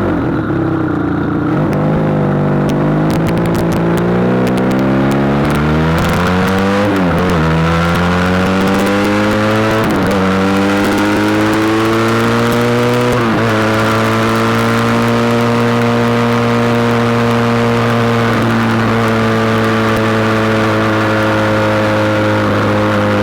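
SBM 400S motorcycle engine under way, pulling up through the gears: the engine note climbs and drops back at three upshifts in the first half, then holds a steady pitch while cruising.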